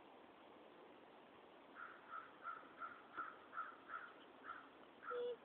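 A bird calling faintly in a quick series of about ten short, similar calls, roughly three a second, starting about two seconds in.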